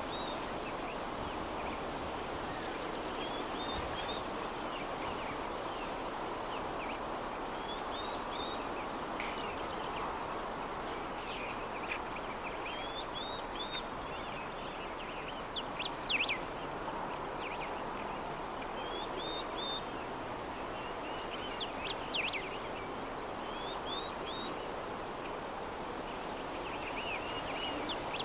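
Soft breeze blowing steadily, with small birds chirping briefly every couple of seconds and two louder, sharper calls past the middle.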